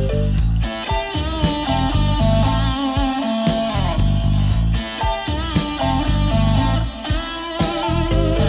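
Rock music with no vocals: an electric guitar plays melodic lead lines with bent notes over bass guitar and drums.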